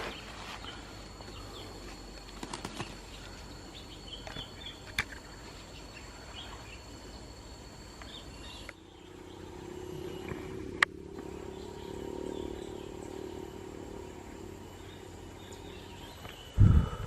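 Steady night insect chirring, which stops about two-thirds of the way through. There is a single sharp crack a little after that, and a heavy thump near the end.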